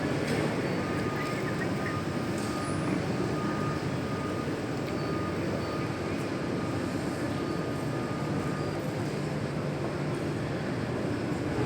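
Steady noise of a jet airliner's engines running at low power while it taxis, an even hum with no change in level.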